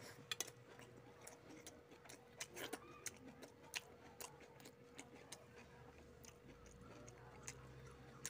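A person eating rice by hand: scattered soft clicks and wet smacks of chewing, heard close over a faint steady hum.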